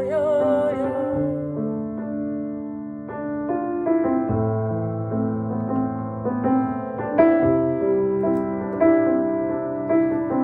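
Keyboard playing slow, sustained chords that change every second or two. A held note wavering with vibrato, likely the last of the singing, trails off in the first second and a half.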